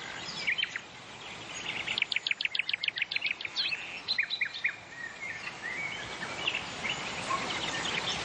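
Wild birds chirping and calling, with a fast trill of repeated high notes about two seconds in, over a steady background hiss.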